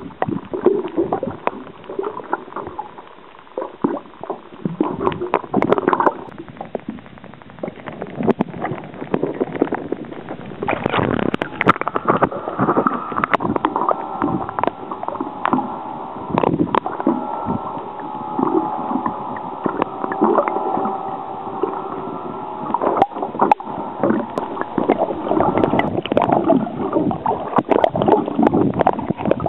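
Water sloshing and gurgling close to a waterproof camera, with irregular knocks and splashes. A steady hum joins it about eleven seconds in and fades out about twenty-three seconds in.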